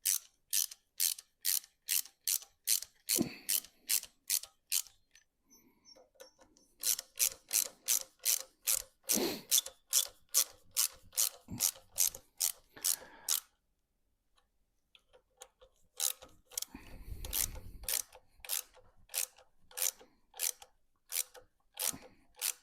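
Socket ratchet wrench clicking as it is swung back and forth to snug up a set of bolts, at about three clicks a second, in three runs with short pauses between them.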